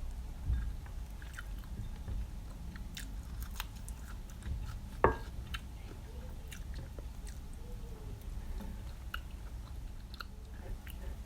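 A person chewing and biting food close to the microphone, with small crunches and wet mouth clicks, and one sharp click about five seconds in.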